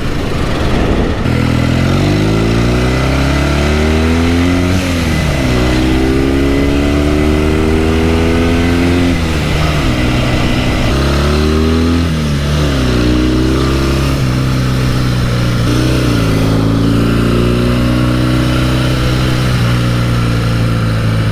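Norton 650SS's parallel-twin engine pulling hard on the road. Its pitch climbs through each gear and drops back at the upshifts, several times, then holds steady at cruise near the end. It is running cleanly.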